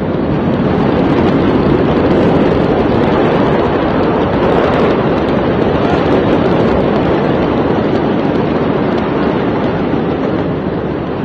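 Steady, loud rushing of storm wind and heavy rain, with no break or change in level.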